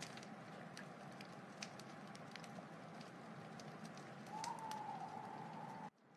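Wood fire crackling, with scattered sharp pops over a steady low hiss. About four seconds in, a thin whistling hiss rises from the burning wood for about a second and a half, then the sound cuts out abruptly near the end.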